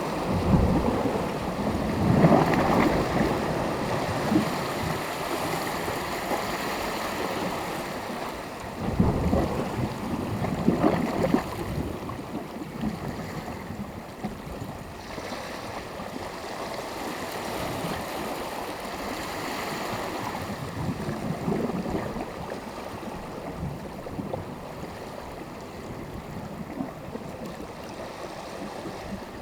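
Small sea waves breaking and washing on the shore, with louder surges about two seconds in, around nine to eleven seconds and again near twenty-one seconds.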